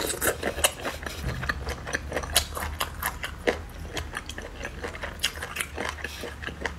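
Close-miked chewing of boneless chicken feet, with many irregular moist clicks and chopsticks poking through the sauced pieces in the bowl, over a low steady hum.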